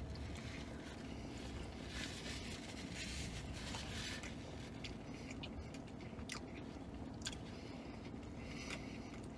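A man biting into and chewing a pretzel-bun bacon cheeseburger close to the microphone, with scattered sharp clicks from the mouth.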